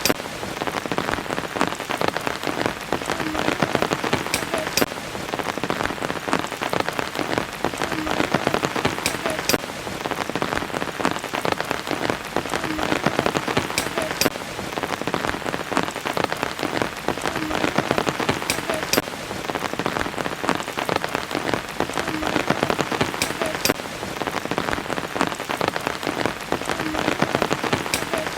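Steady rain falling on a surface, a dense patter of close drops. The same stretch of rain repeats about every five seconds, like a loop.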